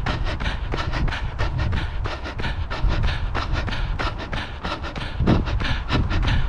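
A runner panting hard while running, with footfalls landing in a steady rhythm of about three a second.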